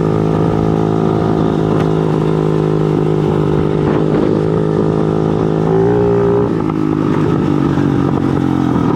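Motorcycle engine running steadily under way. About six seconds in, its pitch rises briefly, then settles lower.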